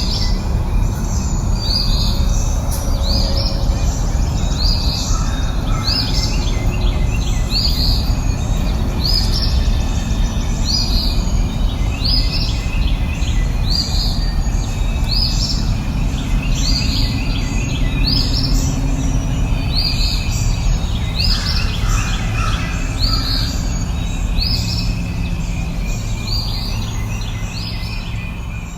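A songbird repeating the same short, high call at an even pace, about once a second, over a steady low rumble of outdoor background noise.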